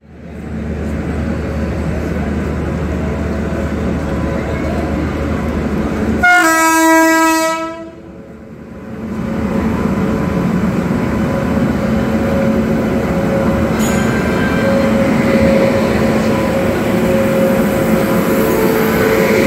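A WAP-7 electric locomotive hauling a Rajdhani Express rolls slowly into a platform with a steady rumble. About six seconds in it gives one horn blast lasting about a second and a half. The locomotive and coaches then roll past with a steady rumble.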